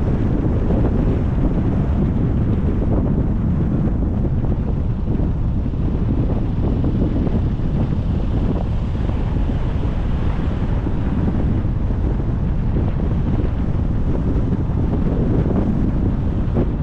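Steady rumble of wind and road noise from a car driving along, with wind buffeting the microphone.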